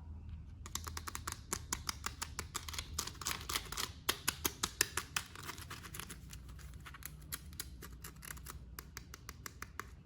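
A quick run of small, sharp plastic clicks and snips from hands working a toy figure and its packaging. It starts about a second in, comes several times a second, and thins out near the end, over a low steady hum.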